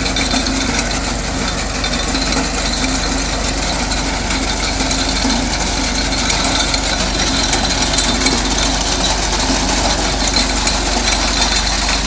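A TAFE Massey Ferguson tractor's diesel engine running steadily, with an even hum.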